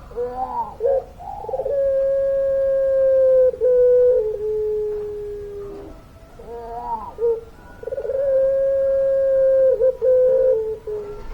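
Puter pelung dove, a domestic dove bred for a long song, cooing twice. Each call opens with a few short, wavering notes and then a long drawn-out coo of about four seconds that drops slightly in pitch near its end.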